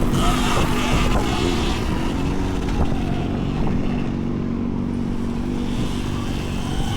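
Electric scooter ride heard from a chest-mounted camera: a steady low rumble of wind and road noise over the mic, with a steady motor hum underneath.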